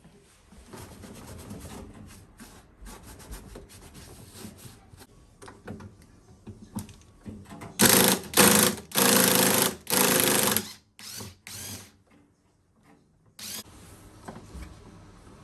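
A handheld power tool runs in four short, loud bursts over about three seconds, with two brief blips after them and another near the end. Before that come quieter sounds of parts being handled and rubbed.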